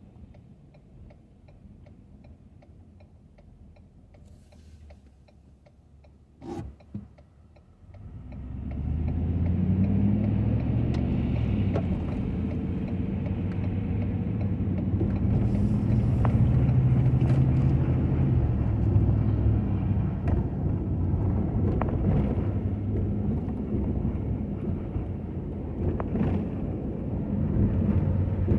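Pickup truck engine, heard from inside the cab, idling quietly with a faint regular ticking, then pulling away. About eight seconds in it rises to a loud, steady run under load, its pitch shifting as it drives.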